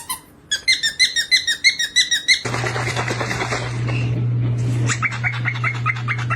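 Parrot chirping in a quick run of short, repeated, falling notes. Partway through, a steady low hum starts, with a hissing, crackling noise and fast small ticks over it.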